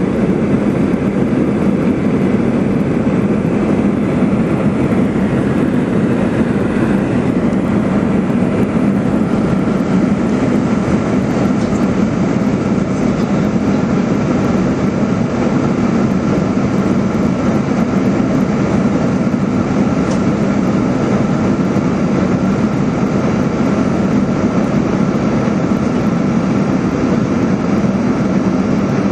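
Airliner cabin noise in flight: a loud, steady drone of engine and airflow, heard from a seat behind the engine. It is heaviest at the low end, with a faint steady high whine.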